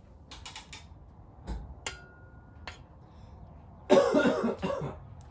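A few light clicks and a dull knock of parts being handled, then a person coughs in a short burst near the end.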